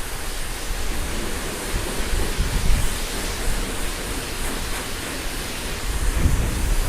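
High-pressure spray wand of a self-serve car wash hissing steadily as it sprays wax onto a motorcycle's tank and fairings. Wind buffets the microphone with low rumbles about two and a half seconds in and again near the end.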